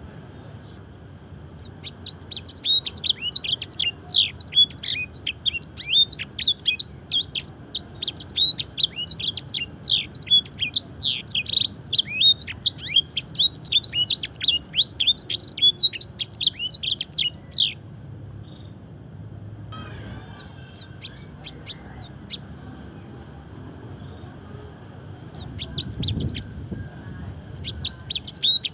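Domestic canary singing long runs of fast, varied high-pitched trills and chirps in the blackthroat and edel sanger style. It breaks off about two-thirds of the way through, gives a few faint notes, and starts singing again near the end.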